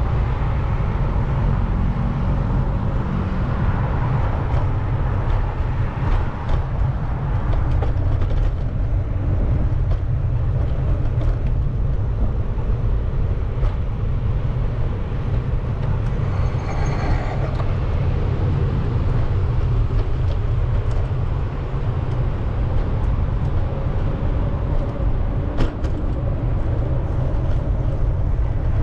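Wind buffeting the microphone of a moving bicycle, a steady low rumble, over city street traffic. A brief high-pitched squeal comes a little past halfway through.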